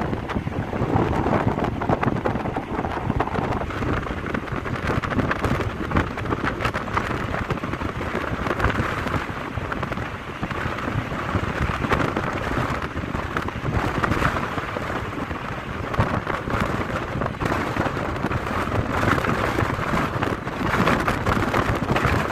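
Wind buffeting the microphone over a steady low rumble, with crackling throughout, as heard from a vehicle moving along a road.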